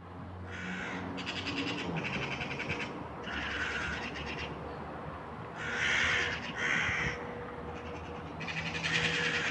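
Crows cawing, about seven harsh caws in several short runs, harassing a cat.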